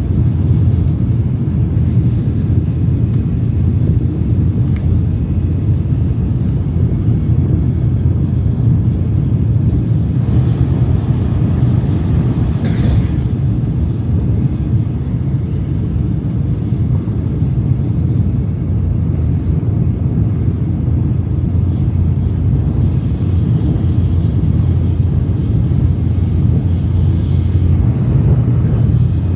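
Shinkansen bullet train in motion: a steady low rumble, with a brief hiss about thirteen seconds in.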